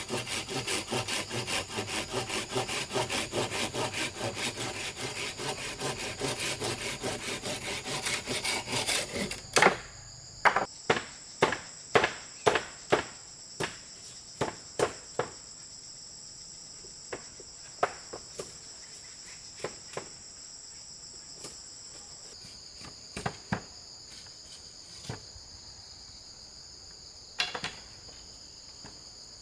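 Hand saw cutting bamboo with rapid back-and-forth strokes for about the first ten seconds. Then comes a series of sharp wooden knocks, quick at first and thinning out. Insects trill steadily behind with a high, even tone.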